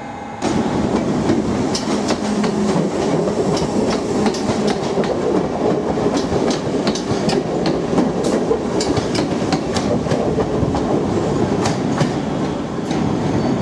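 ScotRail electric multiple units, including a Class 314, running through the station. There is a steady rumble with frequent clicks of the wheels over rail joints.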